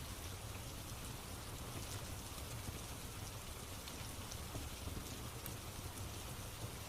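Steady rain falling, with a low rumble underneath and scattered faint crackles from a fireplace.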